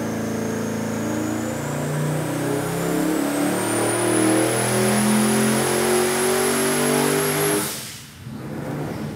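428 cubic inch twin-turbo Ford V8 on an engine dyno making a full-throttle pull through 3-inch Dynomax Bullet straight-through mufflers. The revs climb with a high whine rising alongside, at about 20 pounds of boost, then cut off suddenly near the end as the pull ends.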